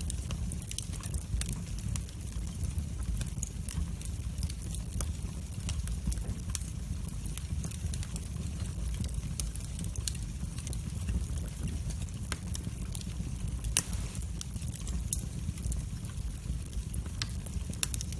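Wood fire burning in a fireplace: a steady low rumble of flames with scattered sharp crackles and pops, one louder pop about three-quarters of the way through.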